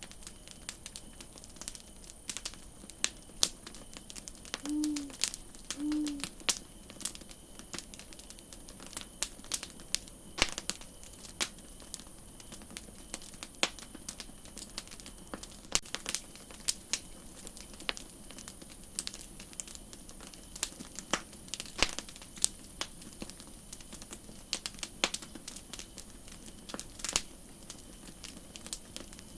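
Campfire crackling: irregular sharp pops and snaps of burning wood over a steady hiss. Two short low calls sound about five and six seconds in.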